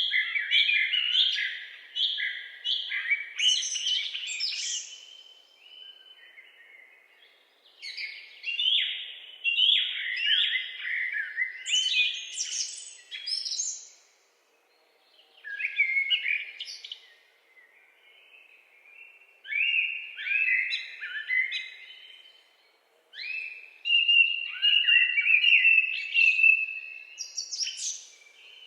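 A songbird singing: phrases of quick chirping notes, each a few seconds long, repeated with short pauses between them.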